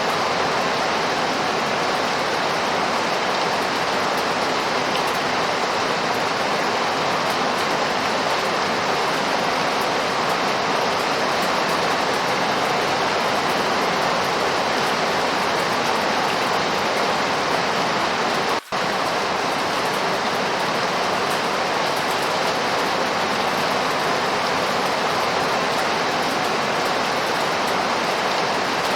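Steady rain falling, an even continuous hiss with no distinct drops standing out. It cuts out for an instant about two-thirds of the way in.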